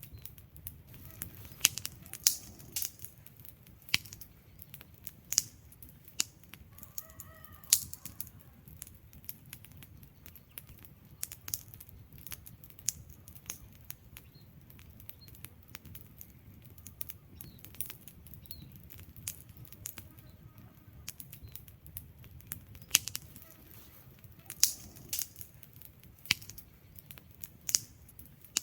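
Log fire in a fireplace crackling: irregular sharp pops and snaps of burning wood over a low steady rumble of flames.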